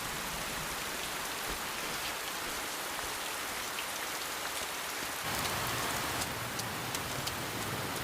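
Steady rain falling. About five seconds in it grows slightly louder and fuller, with separate drops ticking.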